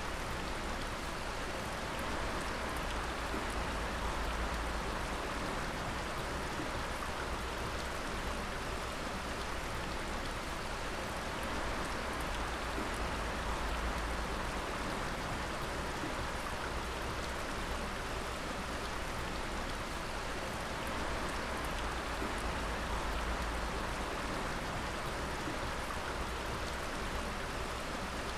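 Water dripping steadily in many drops at once, a dense continuous patter like rain.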